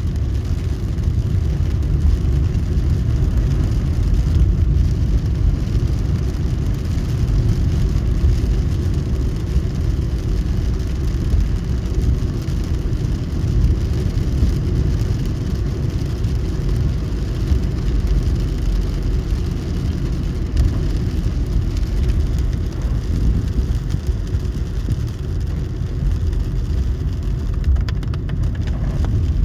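Car driving in heavy rain: a steady low rumble of engine and tyres on the wet road.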